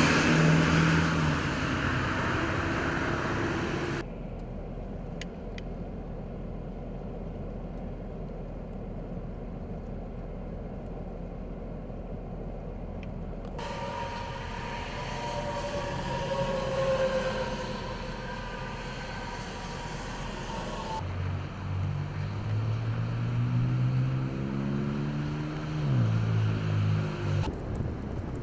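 Outdoor traffic noise in a series of cut-together clips, with a motor vehicle's engine passing; in the later part one vehicle's engine pitch climbs and then drops.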